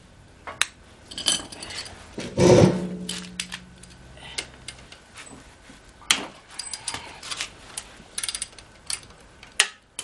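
Metal objects being handled: scattered clicks and clinks, and one louder knock about two and a half seconds in that rings on with a pitched tone for a couple of seconds.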